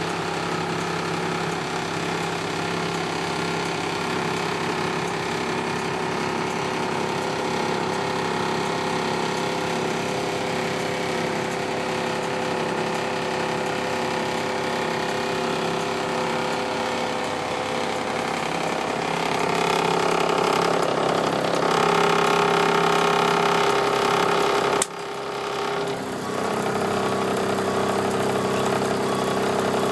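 International DT466 diesel engine of a 1993 International 4900 dump truck running steadily. About two-thirds of the way through it gets louder and higher in pitch, then drops out briefly and picks up again.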